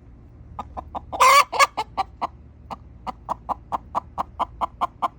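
Frightened hens giving rapid alarm clucks, about five short calls a second, with a loud, longer squawk a little over a second in. It is the alarm calling of chickens that have just been attacked by a hawk.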